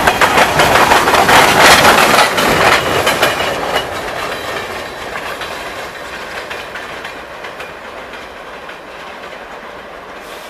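Freight train of salt hopper cars rolling past, its steel wheels clicking over the rail joints. Loud for the first three or four seconds, then fading steadily as the train draws away.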